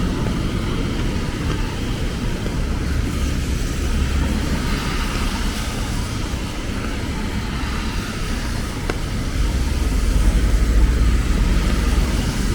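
Rainy city street ambience: a steady hiss of rain and traffic on wet roads, with a low vehicle rumble that grows louder near the end.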